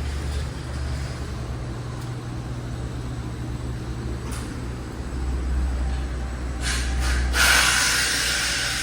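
The wrecked 2015 Challenger's 6.4-litre Hemi V8 idling with a steady low hum, with a brief hiss about two-thirds of the way through and a louder rushing hiss near the end.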